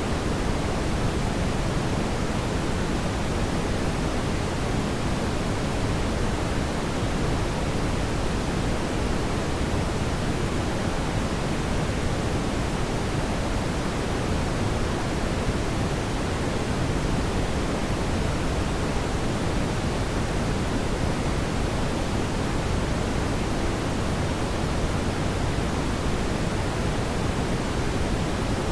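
Steady, even rushing noise, strongest in the low end and unchanging throughout, with no distinct crackles or pops.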